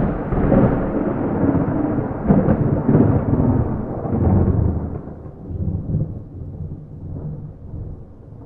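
Thunder rumbling loudly in several rolling swells for about five seconds, then fading away, with no rain.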